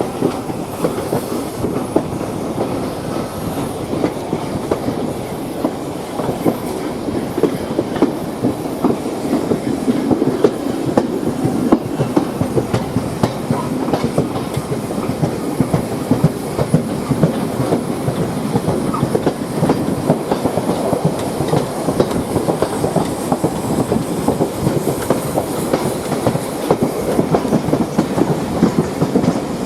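A train running on the rails, its wheels and carriages giving a steady rattle with many irregular clicks and knocks over the track, a little louder from about a third of the way in.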